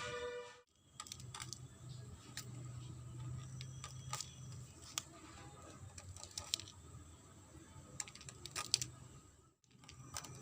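Pieces of chalk giving off irregular sharp clicks and small cracks, one after another at no set rhythm, with a few louder clicks about five seconds in and near the end.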